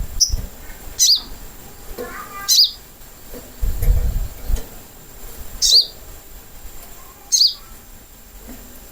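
Little spiderhunter (sogok ontong) giving short, sharp, high single calls, five in all, spaced irregularly, each dropping quickly in pitch. This is a lure recording meant to draw a bird into answering. A low rumble sounds briefly in the middle.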